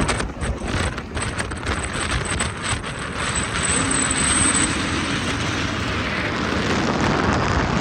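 A car taking off hard: a dense, steady rush of engine and exhaust noise, with a string of sharp cracks over the first few seconds.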